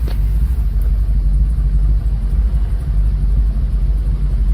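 Steady low rumble of a car, an even drone of engine and road noise with no sudden events.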